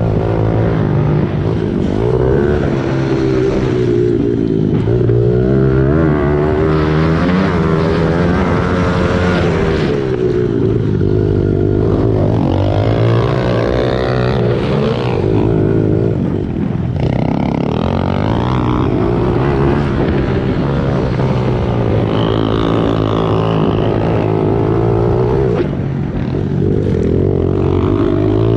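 Small single-cylinder four-stroke pit bike engines running continuously, revving up and down as the bikes are ridden through gear changes and corners, with more than one engine heard at once.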